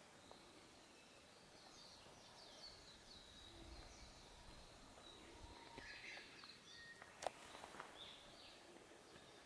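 Faint birdsong, scattered short chirps and trills from small birds, over quiet forest ambience, with a single sharp click about seven seconds in.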